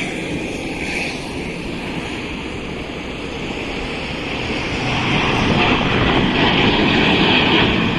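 Jet aircraft engines roaring on takeoff, a steady rushing noise that grows louder about five seconds in.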